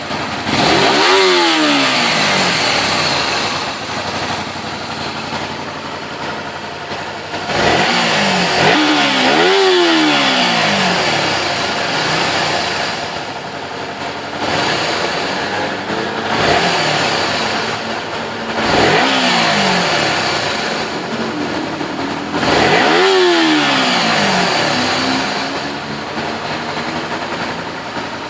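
Honda VTR 250's V-twin engine and exhaust revved again and again from idle: about six quick blips of the throttle, each rising sharply in pitch and falling back to a steady idle, two of them close together.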